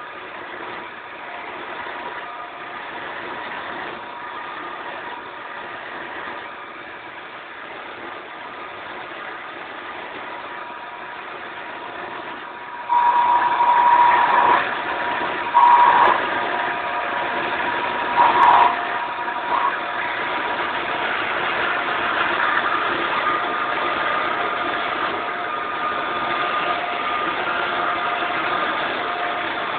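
Wood lathe running steadily with a humming tone. About halfway through it grows louder, with a few brief shrill squeals over the next several seconds, then runs on at the louder level.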